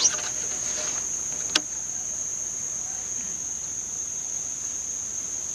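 Steady, high-pitched drone of a summer insect chorus, with a single sharp click about a second and a half in.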